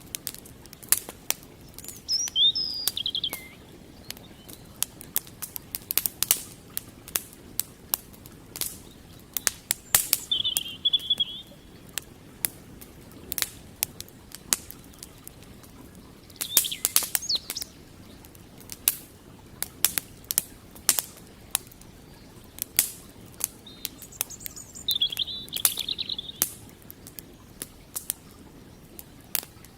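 Wood campfire crackling, with frequent sharp pops and snaps. A bird calls four times over it, in short high trills, the first one falling in pitch.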